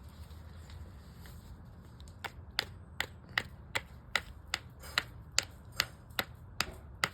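Stone point being knapped with a chipper tool: a steady run of sharp clicks, about two or three a second, starting about two seconds in.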